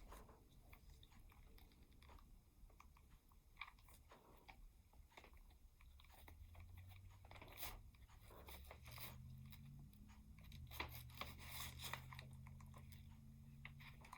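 Faint handling noises from craft work with twine, foam and parchment paper: scattered small clicks, crinkles and crunches. A low steady hum sets in about halfway through.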